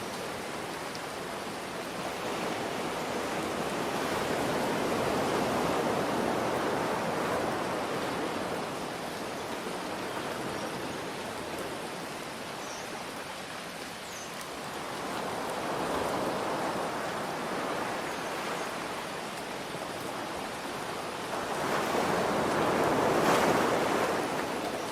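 Ocean waves washing in over a steady hiss of rain. Three slow swells rise and fall, the loudest near the end.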